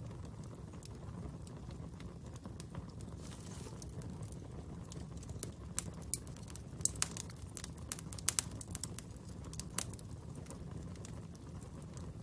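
Fire burning with a steady low rumble and scattered sharp crackles and pops, the pops coming thicker and louder in the second half.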